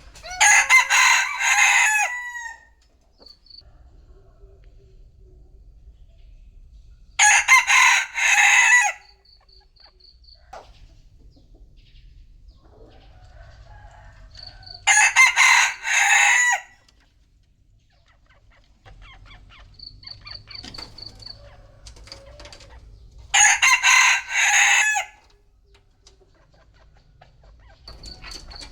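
A rooster crowing four times, each crow lasting about two seconds and coming roughly every eight seconds. Faint short high-pitched peeps are heard between the crows.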